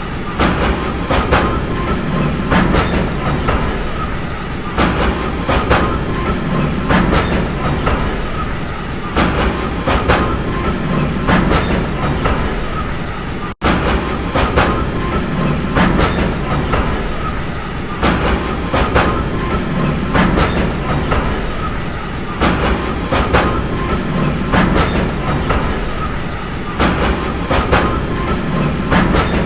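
Train running on rails: a steady rumble with wheels clacking over rail joints, mostly in pairs every second or two. The sound breaks off for an instant about halfway through.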